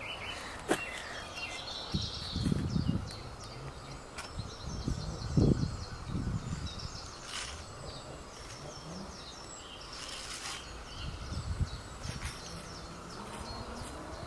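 Outdoor ambience with small birds singing in quick repeated series of high chirping notes, and a few low muffled bumps a couple of seconds in and again about five to six seconds in.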